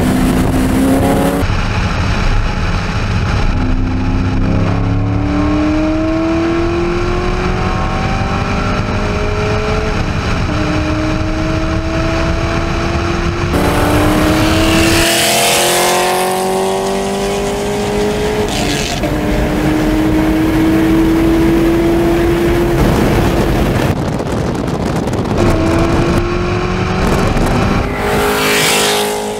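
2012 Corvette Grand Sport's LS3 V8, breathing through long-tube headers, accelerating at full throttle. Its engine note rises through each gear and drops back at the shifts, several times over, with wind and road noise behind it.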